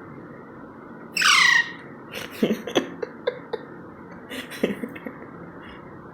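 Baby Indian ringneck parakeet giving one loud squawk that slides down in pitch, about a second in, followed by a scatter of short clicks and small squeaks.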